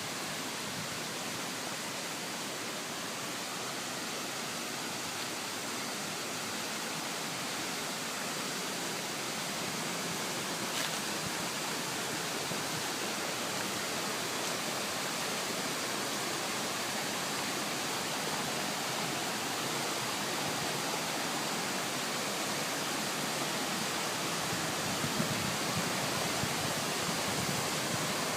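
Waterfall: a steady rush of falling water, growing a little louder toward the end.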